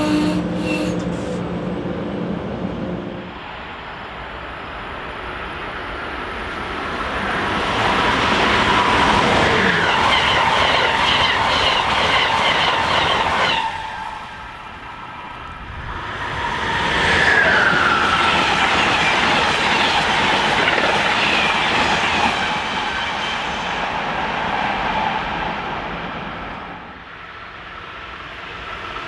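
Trains running past on the rails: MBTA bilevel commuter coaches rolling by, then more trains rushing through with wheels clattering and squealing on the track. The noise comes in three loud passes with sudden drops between them, and a falling whine about two-thirds of the way through.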